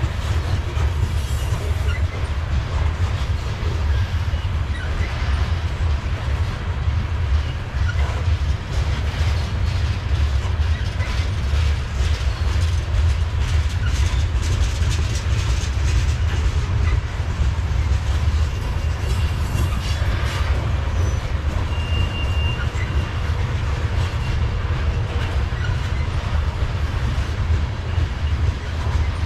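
Covered hopper cars of a long freight train rolling past: a steady heavy low rumble with wheels clacking over the rail joints. A brief thin wheel squeal comes about twenty seconds in.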